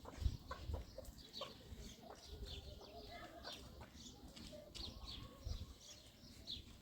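Faint farmyard chickens clucking, with many short, high chirps repeating over a low rumble.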